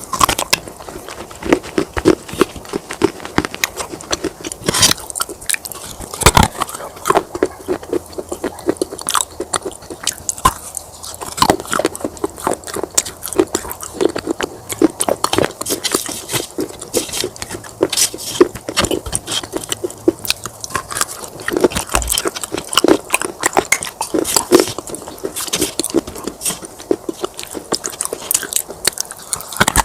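Pieces of baked clay pot being bitten and chewed: a dense, irregular run of sharp crunches and crackles.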